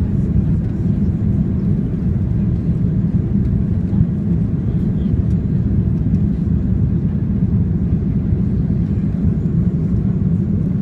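Airliner cabin noise on approach: a steady low rumble of engines and airflow that stays even throughout.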